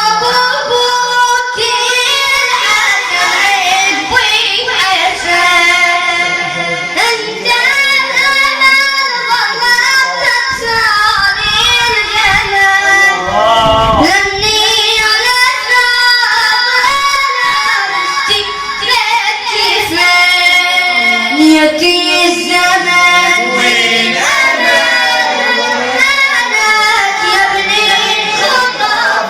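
A high solo voice chanting an Arabic religious lament (a radood's latmiya recitation), in long ornamented lines that bend and waver in pitch.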